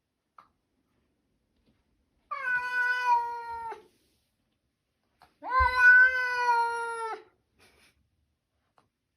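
Domestic cat meowing twice, two long drawn-out calls of about a second and a half each, a few seconds apart.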